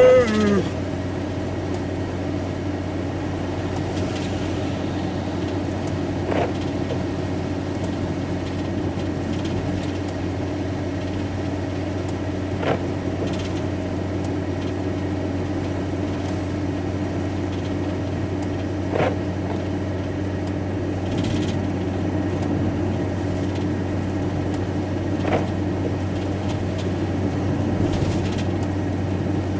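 Lorry engine and road noise droning steadily inside the cab at motorway speed, with a short squeak about every six seconds. A brief, louder sound with a gliding pitch comes right at the start.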